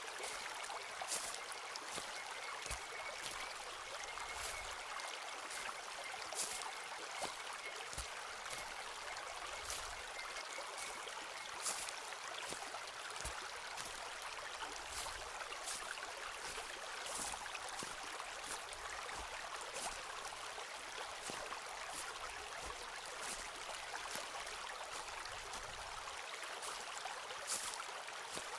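Footsteps on a forest path, short crisp steps about one or two a second, over the steady rush of a running stream.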